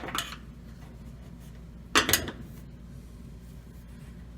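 A few short metallic clicks and clinks, a pair right at the start and another pair about two seconds in, from a screwdriver and metal clamps being worked on a washing machine's cover.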